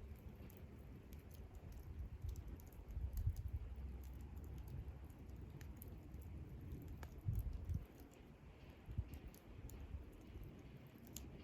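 Wood campfire crackling: scattered sharp ticks and pops over a low rumble, with a couple of dull thumps.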